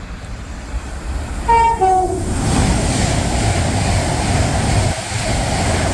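Class 390 Pendolino electric train sounding a short two-tone horn, a higher note then a lower one, about a second and a half in, then passing with a loud steady rush of wheels and air.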